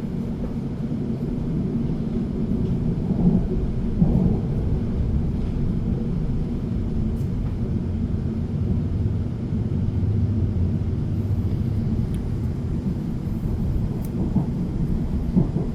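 Steady low rumble of an electric passenger train running, heard from inside the carriage, with a few soft knocks about three and four seconds in and again near the end.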